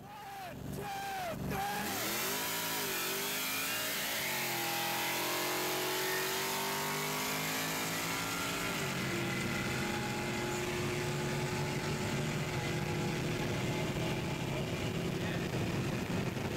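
Chevrolet Trailblazer SS's 6.0 L LS2 V8 at full throttle, heard from inside the cabin. It revs up and down briefly at the start, then climbs in pitch with gear changes about four and nine seconds in, over heavy wind and road noise at highway speed.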